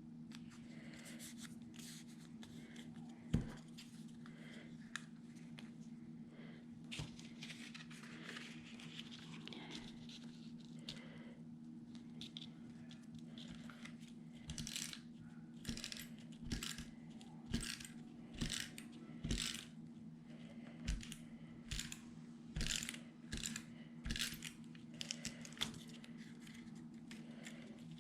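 Short scratchy strokes of a pen on paper, drawing little dashes, about one a second in the second half, over a steady low hum.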